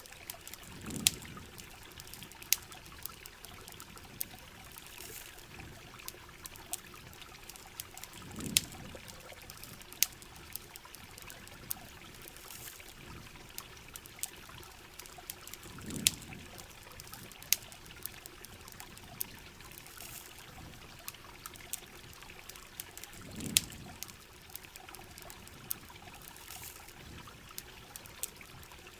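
Heavy rain and running river water as a steady wash, with scattered sharp pops and clicks of a crackling campfire. A low, brief swell of sound comes back about every seven and a half seconds, four times.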